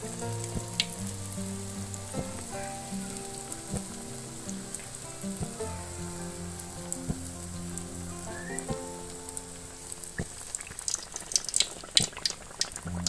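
Pitha batter deep-frying in a pan of hot oil, sizzling and crackling steadily. Near the end a metal spatula goes in under the cake to turn it, with a burst of sharp, louder crackles and clicks.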